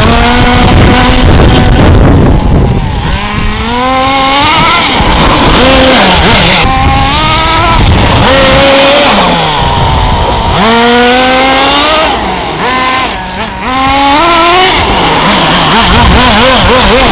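RC car motor speeding up again and again, its whine rising in pitch about six times, over a loud constant rushing noise.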